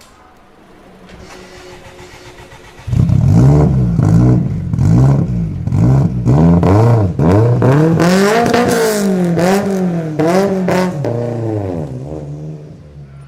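A supercar's engine revved hard over and over, cutting in suddenly about three seconds in, its pitch climbing and dropping with each blip before it settles and fades near the end.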